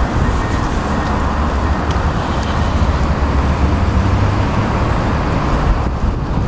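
Steady street traffic noise, a low rumble of road vehicles with no distinct events.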